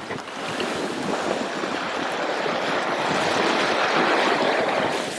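Steady rush of sea water past the hull of a Beneteau 40.7 sailing yacht running under spinnaker, growing a little louder towards the end.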